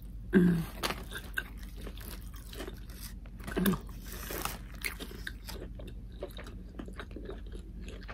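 Close-miked chewing of a hot pastrami sandwich, with many small wet mouth clicks and smacks. A short hummed "mmm" of enjoyment comes about half a second in, and another short hum comes about three and a half seconds in.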